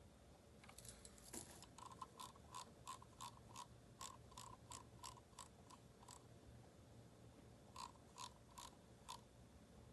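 Typing on a Keychron K4 mechanical keyboard fitted with aftermarket keycaps: a quick flurry of keystrokes about a second in, then steady keystrokes at two to three a second, a pause of over a second, and four more keystrokes near the end.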